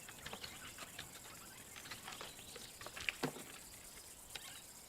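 Faint, scattered scratches and scrapes of a young lion's claws on tree bark as he climbs, with one louder scrape a little after three seconds in.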